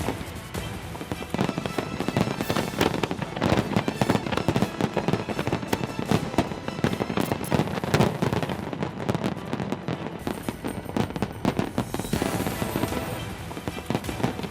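Fireworks display going off continuously: many shells bursting in rapid, irregular succession with crackling, over music.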